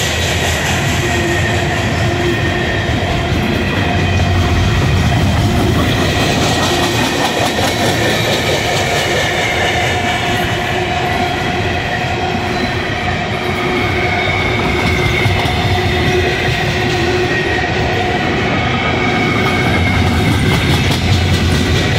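A train of empty steel coal gondolas rolling steadily past close by: a continuous rumble and clatter of the wheels over the rail joints. Faint squealing tones from the wheels drift in and out.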